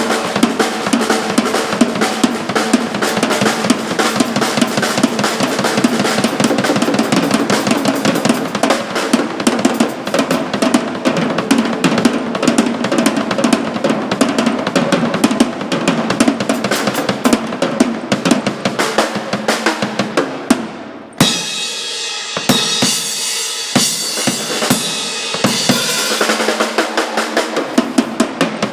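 Drum kit played hard in a rock band rehearsal: a dense run of snare and bass-drum hits with rolls. A little over two-thirds of the way through it breaks off for a moment, then comes back sparser, with cymbals ringing.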